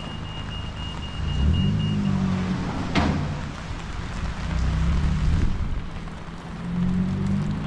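Cars driving past on a town street, their engines swelling and fading in waves, over a steady hiss of wind and rain. A sharp knock comes about three seconds in, and a faint steady high tone stops about two seconds in.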